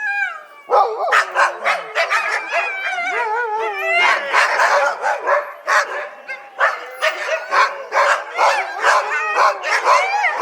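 Dogs yelping, whining and barking in quick, high-pitched, overlapping calls that slide up and down in pitch, the repetitive high-pitched barking typical of a distressed or fearful dog.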